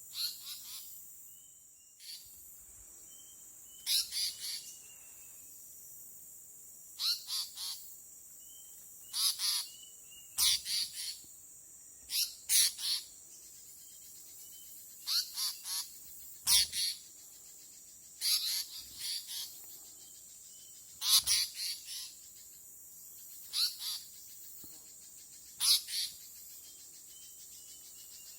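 Small bird calling: short, sharp calls in groups of two to four, repeated every two or three seconds, over a steady high hiss.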